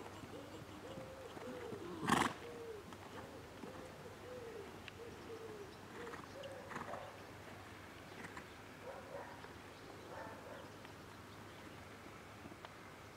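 A bird cooing: a run of low, rounded notes repeated about twice a second over the first five seconds or so. A single short, loud burst of noise cuts in about two seconds in.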